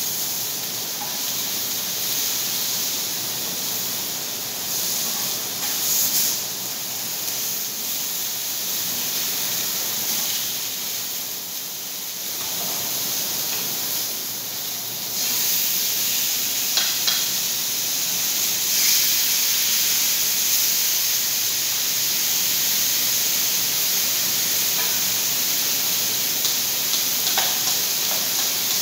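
Chicken pieces sizzling steadily on a flat steel plate, with a few light clicks of a utensil against a bowl.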